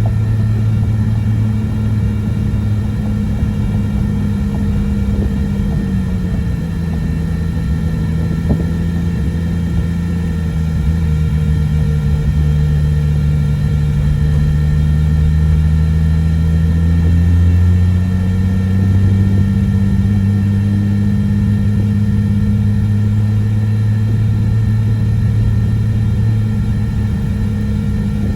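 Freshly reinstalled Nissan RB25 NEO straight-six running steadily, most likely at idle. Its engine speed sags lower about six seconds in and comes back up near eighteen seconds.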